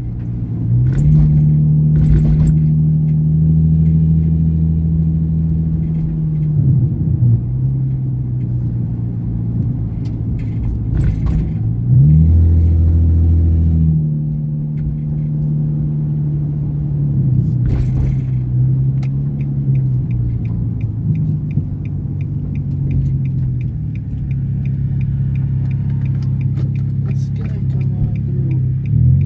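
Nissan 350Z Nismo's 3.5-litre V6 heard from inside the cabin at low town speeds: the engine note rises under throttle and drops off several times as it is shifted and eased off, with a few short clicks. From about two-thirds of the way in, a regular light ticking runs alongside the engine.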